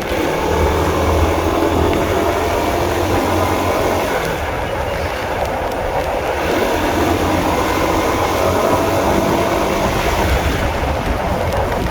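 Honda CB150R's single-cylinder engine running steadily under way, with a low hum and road and wind noise.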